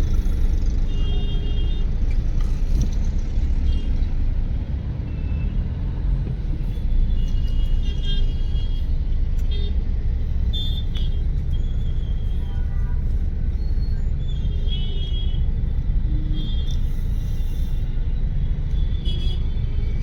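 Road traffic in a jam: a steady low rumble of idling and crawling vehicle engines, with short high tones sounding now and then.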